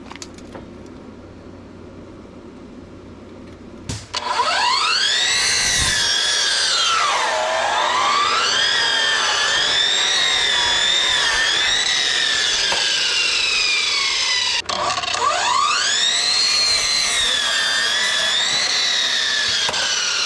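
Electric power saw cutting lumber: its motor whine rises sharply about four seconds in, dips in pitch, then holds steady through the cut. Near three-quarters of the way through it cuts off abruptly, then rises again for a second run.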